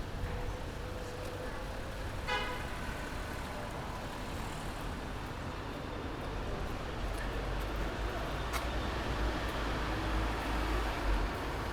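Street traffic noise: a steady hum of road traffic with a short pitched toot about two seconds in, and a heavier vehicle rumbling past in the second half.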